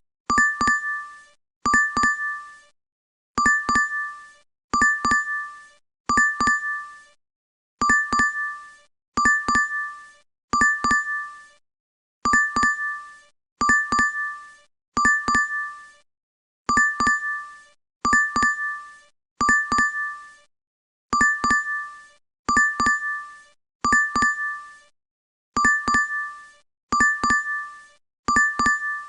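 DoorDash app notification chime: a quick double ding that rings briefly, repeated at an even pace about every second and a half.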